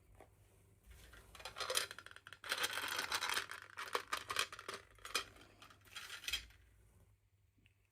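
Toy packaging being handled for an unboxing: crinkling with many small clicks of hard plastic, busiest in the middle few seconds, then it stops.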